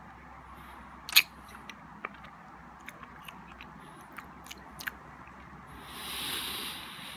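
Close-up mouth sounds of a person chewing a hard-shelled milk chocolate truffle. There is one sharp click about a second in, then scattered small clicks, and a breathy hiss near the end.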